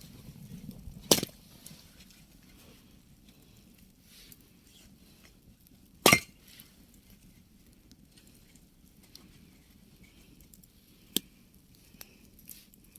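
Axe striking wood to split kindling: three sharp single blows several seconds apart, the middle one the loudest, with a fainter knock near the end.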